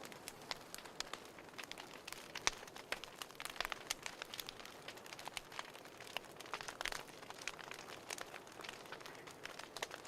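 Wood fire crackling in a fireplace: irregular sharp pops and snaps over a soft hiss, with one louder pop about two and a half seconds in.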